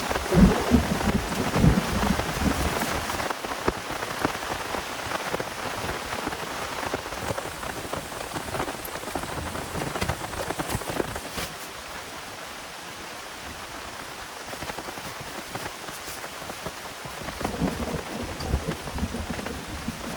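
Heavy rain falling, with many separate drops striking close by. Low rumbles of thunder come in the first few seconds and again near the end.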